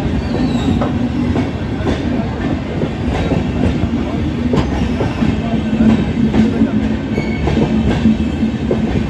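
Passenger train coaches running past at speed close by: a loud, steady rumble of wheels on rail, broken by short clacks every second or so.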